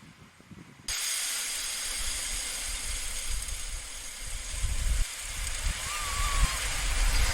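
Outdoor ambience: wind rumbling on the microphone over a steady hiss, starting abruptly about a second in, with a short bird call near the end.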